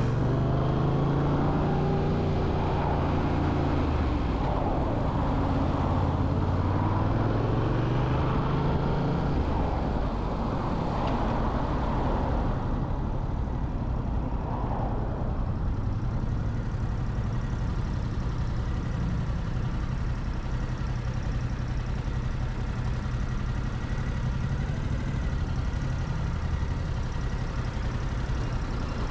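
Motorcycle engine running under way, its pitch rising and falling for the first ten seconds or so as it speeds up and slows, then holding steadier for the rest.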